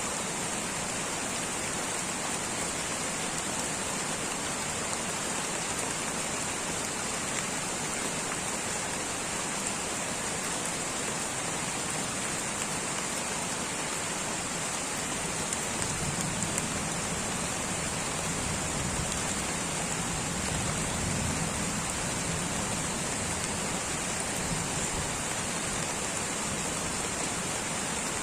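Light rain falling steadily in a tropical rainforest, an even hiss of drops. A low rumble swells under it for several seconds in the second half.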